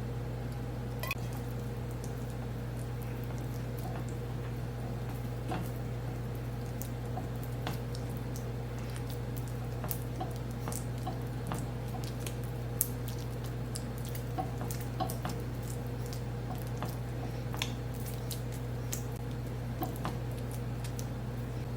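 Hands working wet, oily focaccia dough: scattered soft squishes and small clicks, over a steady low hum.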